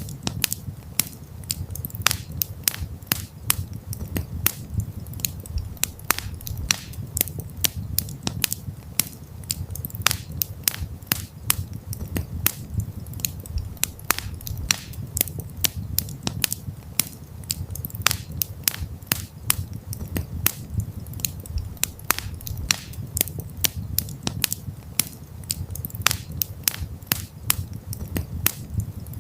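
Campfire burning: wood crackling with frequent sharp snaps and pops at irregular intervals over a low, steady rumble.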